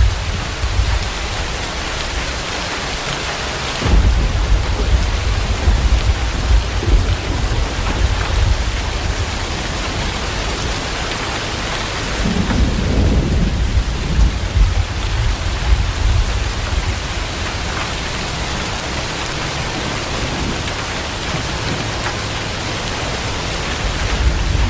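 Heavy rain pouring steadily, with a low rumble that comes and goes and swells about twelve seconds in.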